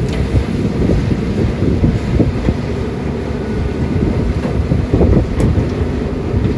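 Caterpillar 320D excavator's diesel engine running under load, a steady low rumble, with a couple of light clicks near the start and about five seconds in.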